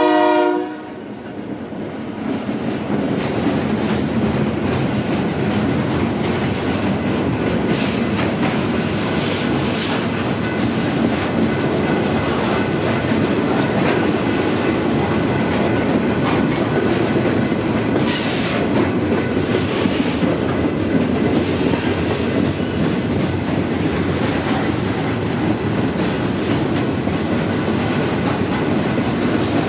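A train rolling past: steel wheels clatter steadily over the rail joints for the whole stretch, with a few brief high squeals from the wheels. A train horn's last note cuts off right at the start.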